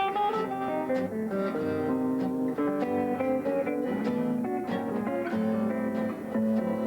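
Guitar played in the thumbpicking style, a steady run of picked notes.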